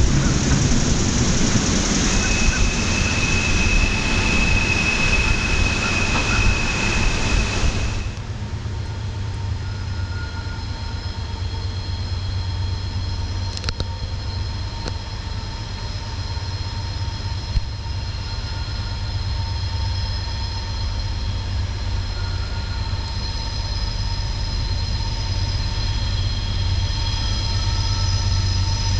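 Freight train cars rolling along a curved mountain grade: a dense rushing rumble with a steady high wheel squeal for several seconds, then an abrupt change to the train farther off, a steady low rumble with thin wheel squeals over it.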